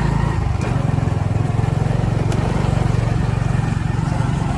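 Motorcycle engine running at a steady, even pace.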